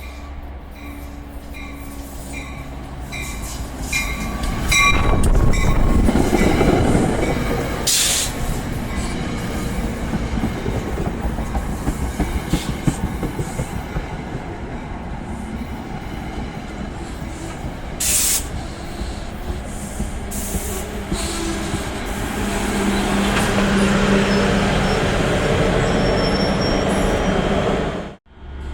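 NJ Transit passenger train running through the station: steady rail and wheel rumble with some wheel squeal, swelling loudest about five seconds in and again near the end. A regular ticking about twice a second sounds in the first few seconds, and the sound cuts off abruptly just before the end.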